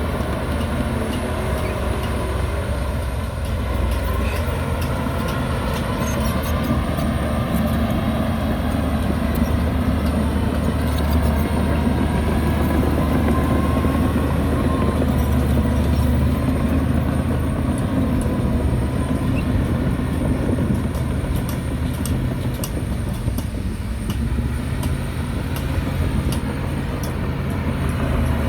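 Heavy diesel earthmoving machinery running steadily under load, its engine note shifting slowly, with bursts of sharp metallic clatter in the second half.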